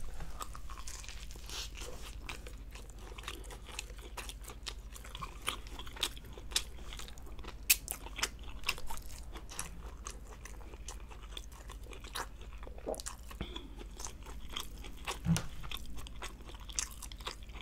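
Close-miked chewing of a soft sandwich of sweet bread, seared tuna steak and raw honeycomb, full of short wet mouth clicks and smacks.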